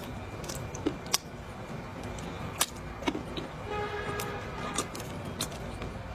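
Dry clay crunching in a full mouth: a few sharp, separate cracks as it is bitten and chewed. A brief horn toot sounds about four seconds in.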